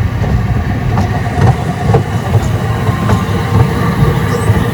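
Small park tourist train running, heard from on board: a steady low rumble with clicks about every half second.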